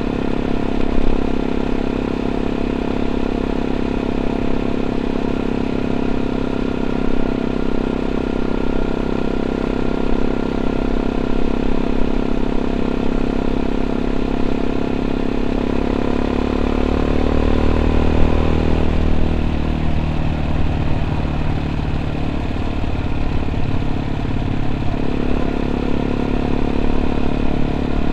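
A 2014 Yamaha WR 125 X's single-cylinder four-stroke engine, running through an Arrow aftermarket exhaust with its dB killer fitted, on the move. It holds steady revs at first, then the revs drop away about two-thirds of the way in as the bike slows. It runs lower for several seconds, then picks up again near the end.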